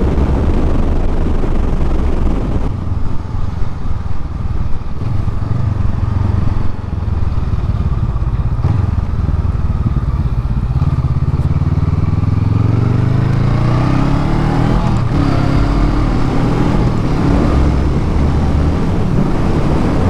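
Motorcycle engine running under way, rising in pitch as the bike accelerates about halfway through, then holding steady at the higher engine speed.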